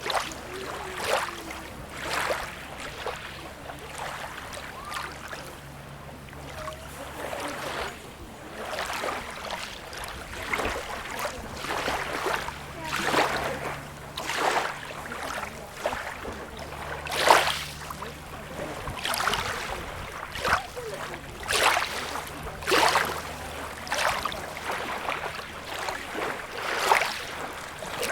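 Small sea waves lapping and splashing at the shore in irregular splashes about every second or so, the loudest a little past halfway, over a steady low hum.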